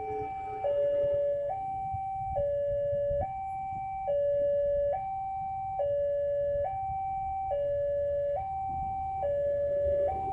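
Railway level crossing warning alarm: an electronic two-tone signal alternating steadily between a higher and a lower pitch, each held a little under a second, warning that a train is approaching.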